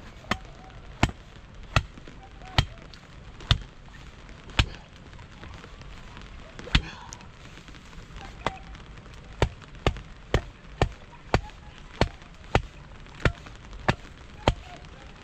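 Repeated chopping strikes, sharp and short. They come at uneven intervals of about a second at first, then settle from about halfway into a steady beat of roughly two a second.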